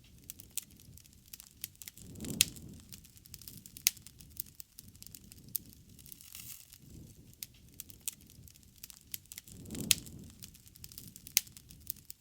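Bonfire crackling, with irregular sharp pops of burning wood throughout. A louder pop comes a couple of seconds in and again near the end, each with a brief swell of low rumble.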